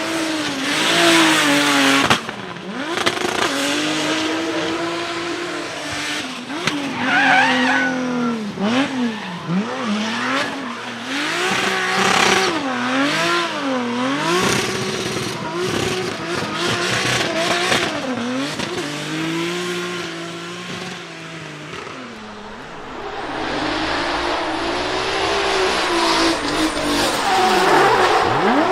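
Drift car engine revved hard, its note swinging up and down over and over as the throttle is worked, with tyre squeal from the spinning rear tyres. The level drops briefly past the twenty-second mark, then builds again.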